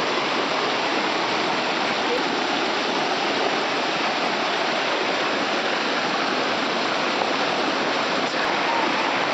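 Heavy storm rain pouring steadily, an even unbroken rush.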